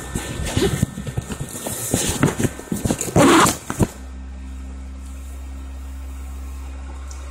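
Handling noise as the camera is pushed into nylon fabric: rustling, scraping and knocks, the loudest a bit past three seconds in. From about four seconds a steady low hum takes over, the blower fan that keeps the inflatable cat inflated.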